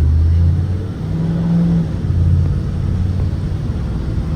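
Propane engine of a 2023 Blue Bird Vision school bus running with a low rumble. A tone rises briefly about a second in, and the engine note swells and eases as the bus drives.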